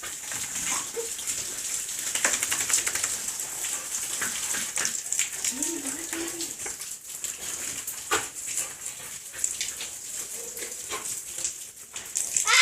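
A dog moving about and making noises, among irregular clicks and scrapes over a steady hiss.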